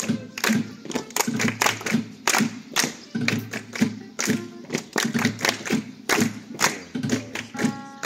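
Flamenco percussion: sharp hand claps (palmas) and foot stamps struck in rhythm, about two to three a second, over flamenco music.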